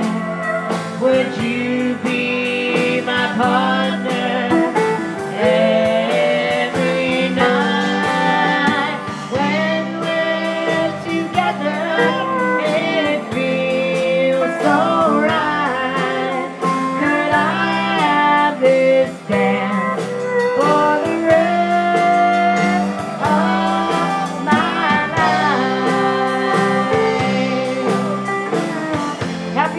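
Country band playing a slow waltz, with a melody line that bends and glides in pitch over steady guitar accompaniment.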